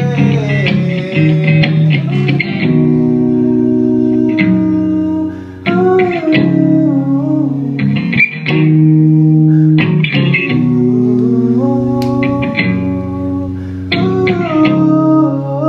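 Live band playing an instrumental passage: guitars and bass guitar holding chords that change every couple of seconds, with sharp picked attacks on each change.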